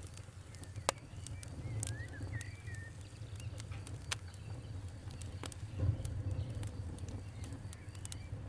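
Wood fire crackling, with irregular sharp pops and snaps over a low steady rumble. A bird chirps briefly about two seconds in.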